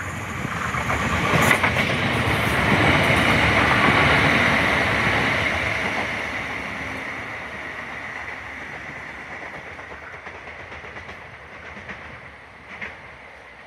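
NI Railways CAF diesel multiple unit running through the station without stopping: engine and wheels on the rails swell as it passes, loudest about three to four seconds in, then fade as it draws away.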